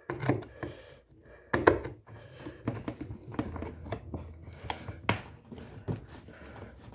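Irregular clicks, knocks and light scraping of a washing machine gearbox being worked loose and pulled out of its housing by hand, with two sharper knocks, one a couple of seconds in and one about five seconds in.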